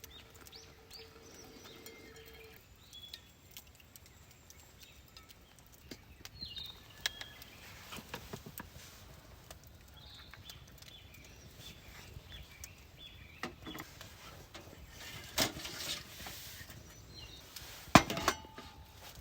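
Quiet outdoor ambience with scattered light clinks and knocks, and two sharper knocks near the end.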